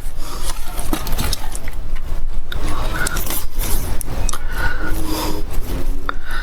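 Irregular scraping, rubbing and clicking of PVC irrigation pipe and fittings being handled and worked together by hand.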